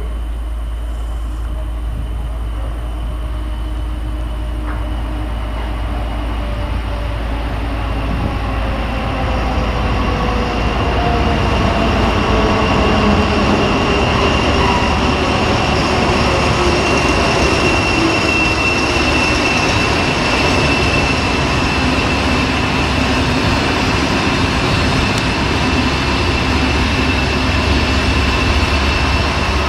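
SNCF diesel locomotive hauling Intercités Corail coaches past, its engine and rolling wheels growing louder over the first dozen seconds and then running on steady, with a thin high wheel squeal.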